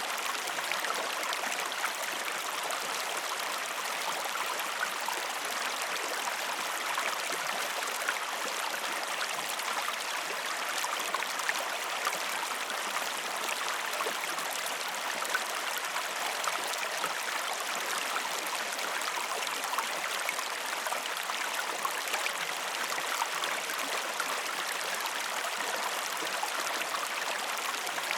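River or stream flowing: a steady, even rush and babble of water with small splashes and trickles throughout.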